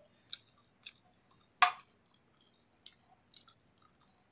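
A person chewing a mouthful of fried egg: scattered small wet mouth clicks and smacks, with one louder click about one and a half seconds in.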